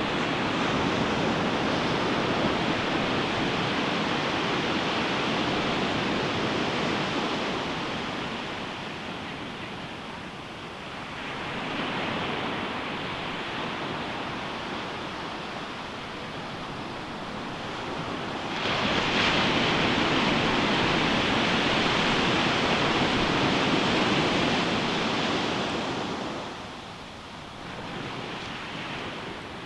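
Ocean waves breaking on a beach: a continuous rushing surf that swells and ebbs. One wave crashes suddenly about two-thirds of the way in, washes loudly for several seconds, then dies down.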